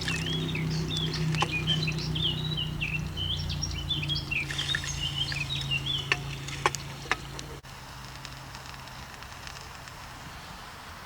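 A songbird singing fast, varied warbling phrases over a low steady hum, with a few sharp clicks. The hum and song stop abruptly about seven and a half seconds in, leaving quieter outdoor background.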